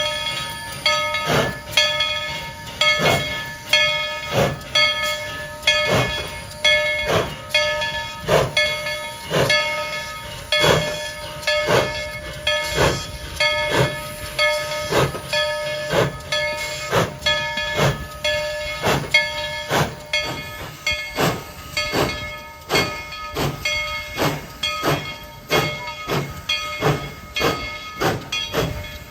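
Tweetsie Railroad No. 190 steam locomotive working under steam, its exhaust chuffing in even beats about one and a half a second and quickening a little in the last third. A steady tone with hiss runs over the beats and fades about two-thirds of the way through.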